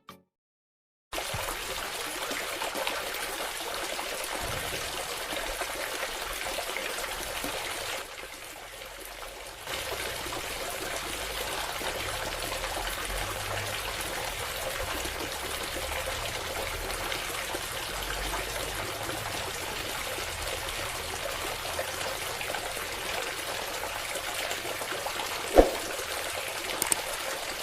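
Steady trickle of water pouring from a small model water pump's outlet. It starts about a second in, eases briefly around eight seconds in, and a single sharp knock sounds near the end.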